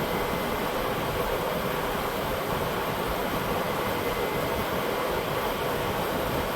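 Steady noise of a shop fan running close to the microphone, even throughout with no distinct knocks or clanks.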